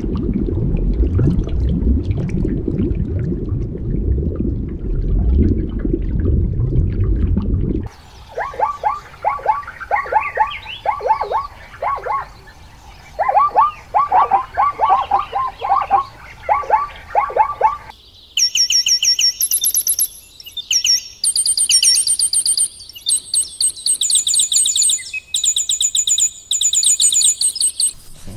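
A low, steady watery rumble for about eight seconds, then bursts of quick, falling animal calls, several in a row each time. After that come high-pitched chirps in rapid repeated runs.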